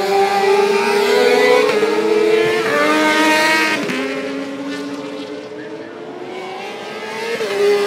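Racing sportbike engine at high revs, its pitch climbing and then dropping sharply at gear changes, about three times.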